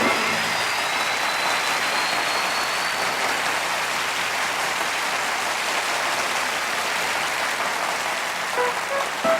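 Concert audience applauding steadily after a song ends. Near the end, the band's first instrument notes of the next song come in over the clapping.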